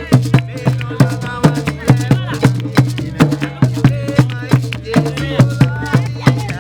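Live West African drumming: hand drums beating a steady, repeating rhythm with deep bass strokes, a shaker rattling along, and voices singing over it.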